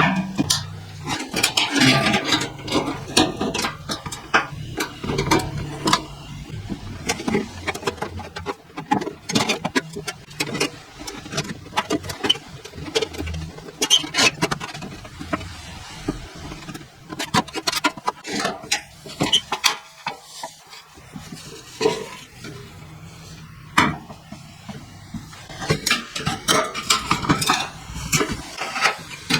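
Thin tin-can metal clinking, tapping and scraping irregularly as it is handled and worked by hand, with many sharp clicks of varying loudness.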